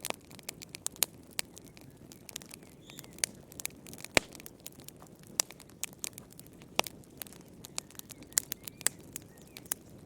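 Wood fire in a fireplace crackling: irregular sharp pops and snaps over a low steady rush of flame, with one louder pop about four seconds in.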